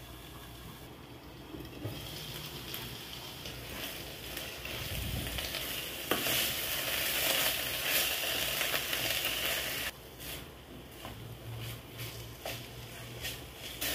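Fish roe and grated coconut sizzling in a non-stick pan while a wooden spatula stirs them, with scraping and small clicks against the pan. The sizzle builds over the first few seconds, is loudest in the middle, and drops suddenly about ten seconds in.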